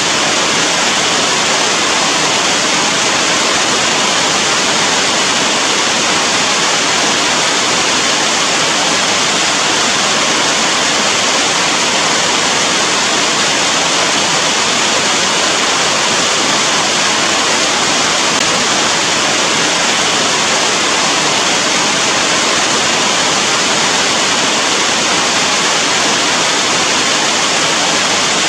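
Steady, loud rain: an even, unbroken hiss with no single drops, thunder or other events standing out.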